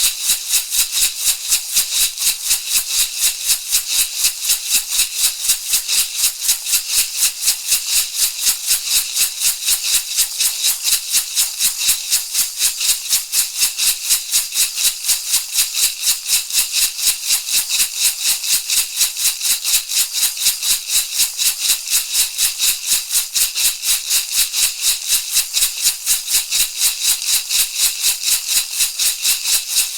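Shamanic rattle shaken in a steady, even rhythm of several crisp shakes a second, a dry high-pitched rattling.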